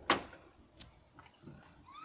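A single short, loud animal call right at the start, fading within a fraction of a second, followed by a faint click.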